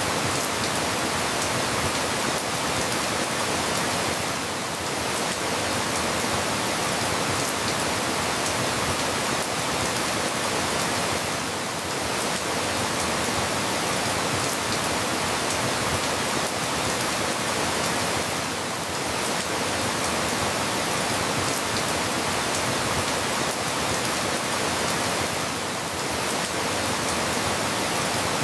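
Steady rain falling, a dense, even hiss with no separate drops standing out; the level dips slightly about every seven seconds.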